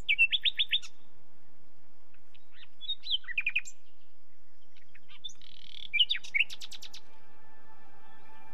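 A small bird chirping in three quick runs of four or five short high notes, over a faint steady background. Near the end, soft sustained music notes come in underneath.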